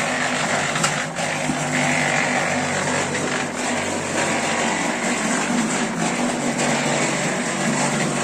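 A motor running steadily, with a few faint knocks over it.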